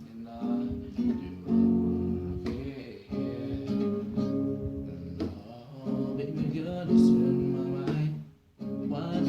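Acoustic guitar strumming chords in a song's accompaniment, cutting out briefly near the end.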